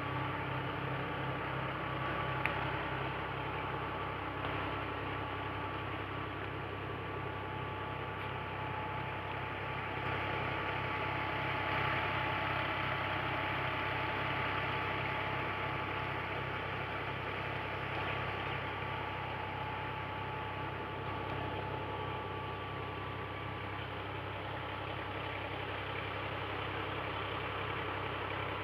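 Tractor engine running steadily at an even speed, driving a tubewell water pump, with a low rhythmic thrum.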